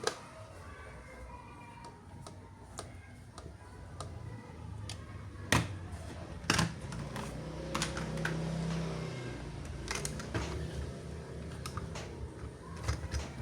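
Light clicks and taps of plastic toys and packaging being handled, with a few sharper clicks scattered through.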